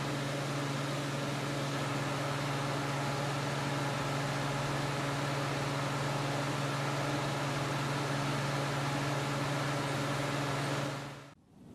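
A steady machine hum over an even hiss, holding level throughout, then cutting off abruptly near the end.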